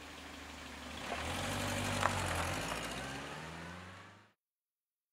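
A 1960s saloon car's engine pulls away and accelerates, its pitch rising, with a brief click about two seconds in. The sound cuts off abruptly into silence a little past four seconds.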